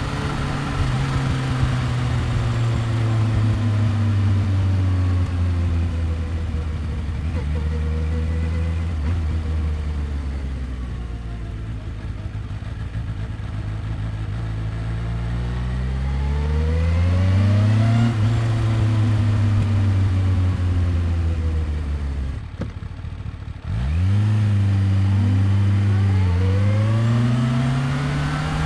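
2015 Kawasaki Ninja H2's supercharged inline-four engine and exhaust on the move, alternating between steady cruising, easing off and accelerating with rising revs. A little past two thirds of the way in, the note drops away briefly and then comes back sharply as the bike pulls again, revs climbing toward the end.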